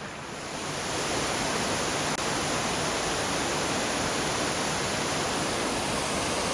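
Steady rush of water, growing louder over the first second and then holding even.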